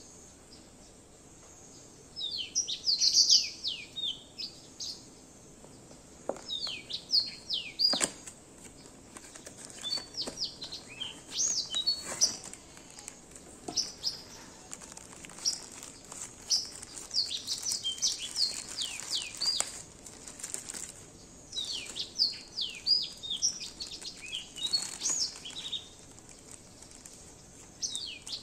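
Small songbird chirping in repeated phrases of quick, high, downward-sweeping notes, a phrase every second or two, with a few faint clicks in between.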